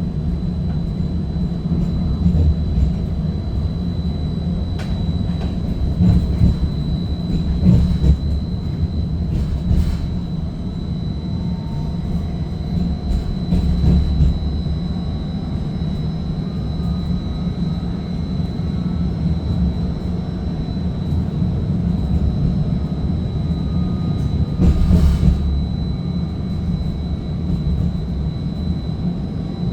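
Seattle First Hill Streetcar heard from inside the car while running between stops: a steady low rumble of wheels on rail and drive, with a thin steady high whine throughout. Occasional clicks and knocks come through, and there is a louder spell about five seconds before the end.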